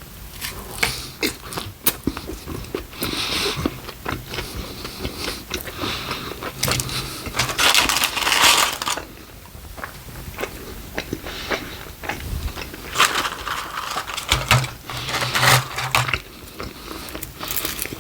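Close-miked eating: biting and crunchy chewing of fast food, with many sharp clicks and crackles. The crunching is loudest in two stretches, one about midway and one later on.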